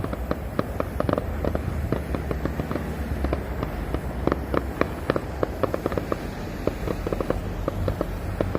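Fireworks crackling: a rapid, irregular run of small sharp pops, several a second, over a low background rumble.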